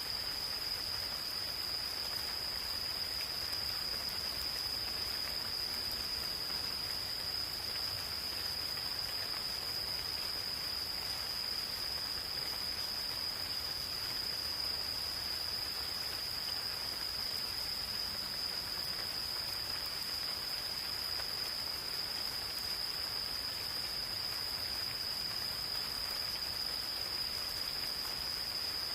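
Gentle rain falling on a forest, a steady soft hiss, with an insect's continuous high-pitched trill held unbroken over it.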